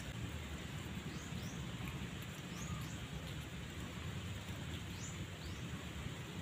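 Outdoor ambience: a steady low rumble and hiss, with a small bird calling in short, high chirps that slide down in pitch, mostly in pairs, three times.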